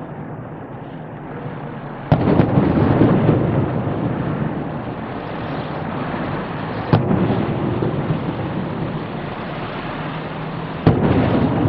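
Aerial fireworks shells bursting: three sharp bangs, about two, seven and eleven seconds in, each trailing off in a long echo.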